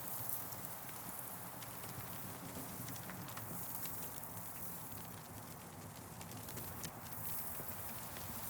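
Campfire crackling: irregular sharp snaps and pops of burning wood over a steady low hiss.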